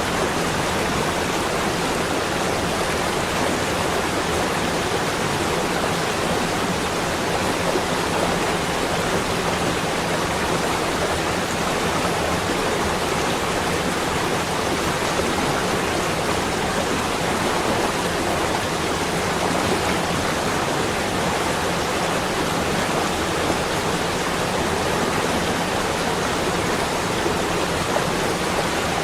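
Steady, unbroken rushing noise, spread evenly from low to high pitch, with no distinct events.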